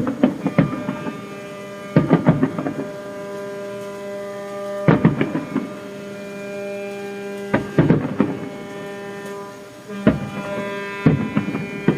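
Ships' horns sounding together in one steady, held, chord-like blare, for the traditional New Year sounding of all ships in harbour. Fireworks bang over it every second or two, some in quick pairs.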